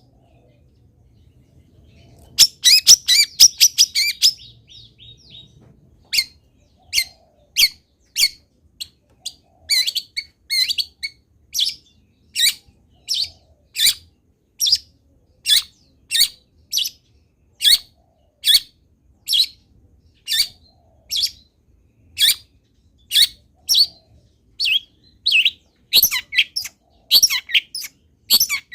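Long-tailed shrike (cendet) singing: a quick run of high notes a couple of seconds in, then short, sharp calls repeated steadily a little more than once a second.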